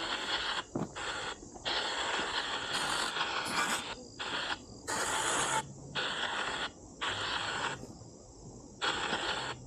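Spirit box sweeping through radio frequencies: bursts of hissing static that cut in and out every half second to a second or so, over a steady high whine.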